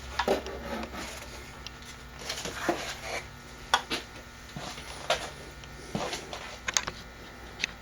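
Scattered light clicks, knocks and rustles of items being handled, about a dozen over several seconds, with a louder pair of knocks near the middle.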